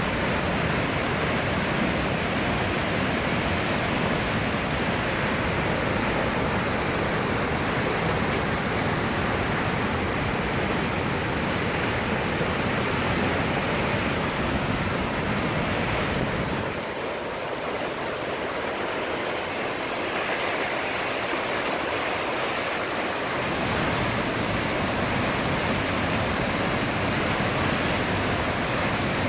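Swollen, fast-flowing river water running in flood: a steady, dense rush of water. The low rumble in it drops away for several seconds past the middle, then returns.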